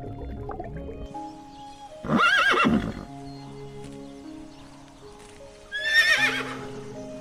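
A horse whinnying twice, about three and a half seconds apart, each a loud quavering call that falls in pitch, over background music with held notes.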